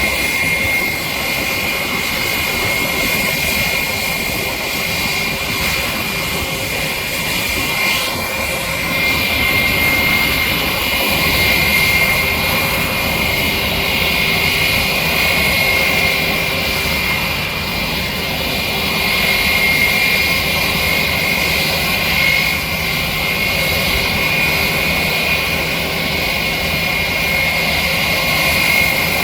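Airbus A320 jet engines running steadily: an even rushing noise with a high, constant whine on top.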